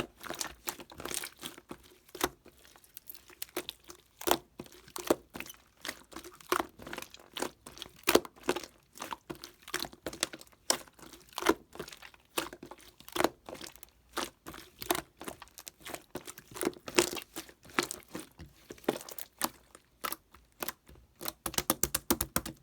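Irregular crinkling and crunching: many sharp crackles a second, coming thicker and faster near the end.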